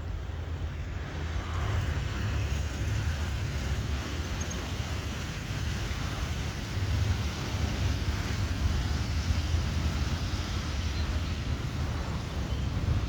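Airbus A321 jet engines rumbling steadily, slowly growing louder, with wind buffeting the microphone.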